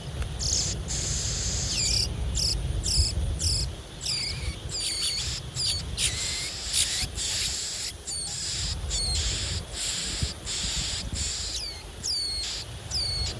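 A small bird gives a rapid series of short, high-pitched chirps, each sliding downward, about two to three a second, with brief pauses. Underneath are a steady insect drone and a low rumble.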